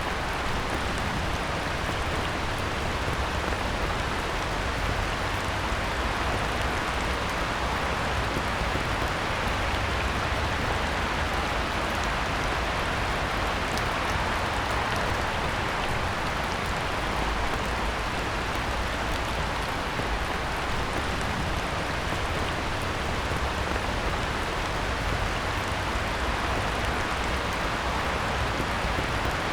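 Heavy rain falling on a pond: a steady, even hiss with scattered individual drop ticks.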